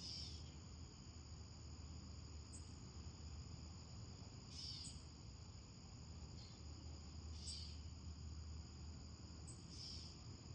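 Faint steady chirring of crickets, an even high-pitched drone, with a few short louder chirps standing out every two to three seconds.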